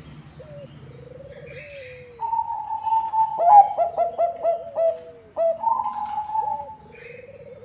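Bangkok-type zebra dove (perkutut) cooing. A loud call in the middle opens with a held note, breaks into a quick run of short notes, then ends on another held note, with softer, lower coos before and after it.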